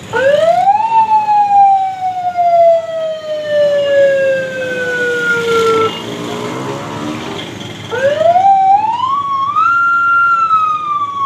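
Siren wailing twice. The first wail rises quickly, then falls slowly over about five seconds and stops; the second climbs in steps about eight seconds in, then begins to fall.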